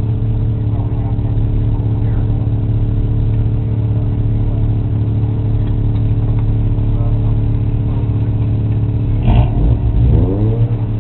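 Sports car engine running at a steady speed, then revving up about nine seconds in, its pitch rising in several sweeps.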